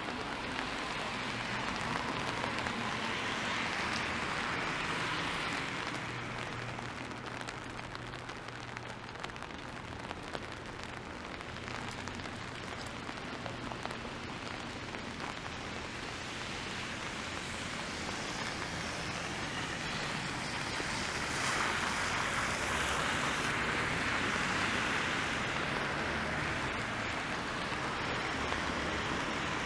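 Steady rain over a city street, with the hiss of car tyres on wet pavement. The hiss swells twice as vehicles pass, a few seconds in and again past the twenty-second mark.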